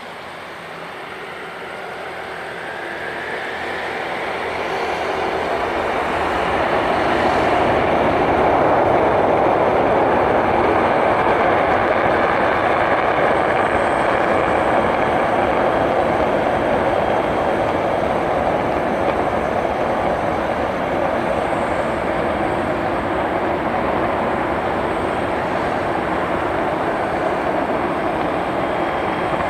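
Tu-160 strategic bomber's four NK-32 turbofan engines roaring on afterburner during takeoff. The roar swells over the first several seconds and then stays loud and steady.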